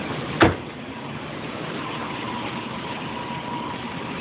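Car engine idling steadily with the air conditioning running during a Freon recharge, with one sharp knock about half a second in.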